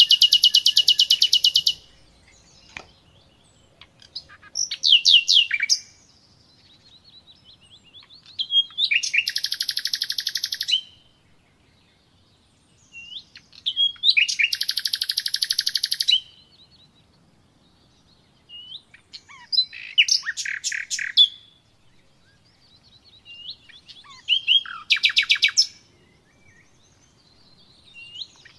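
A small songbird singing: about six trilled phrases of very rapid notes, each lasting one to two seconds and coming every four or five seconds, with short single chirps between them.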